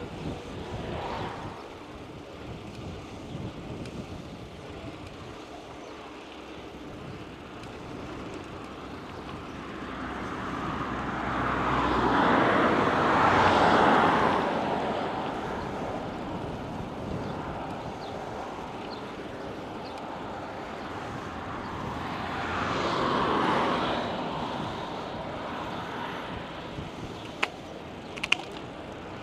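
Vehicles passing on the road: one loud pass swells up and fades about twelve to fourteen seconds in, and a smaller one about twenty-three seconds in, over a steady rush of road and wind noise. Two sharp clicks come near the end.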